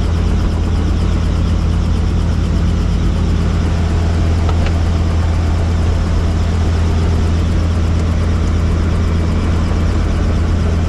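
Helicopter in flight, its rotor and engine giving a steady low drone with a rushing noise over it.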